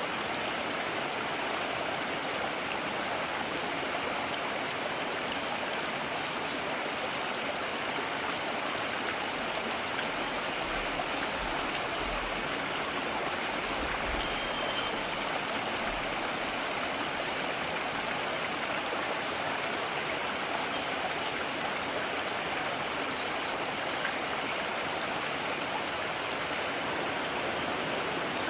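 A mountain stream running steadily, its water noise even and unbroken.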